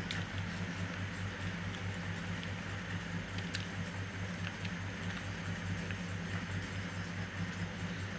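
Faint eating sounds of someone eating curry, rice and roti by hand: soft wet chewing and mouth clicks with a few small ticks. A steady low hum runs underneath.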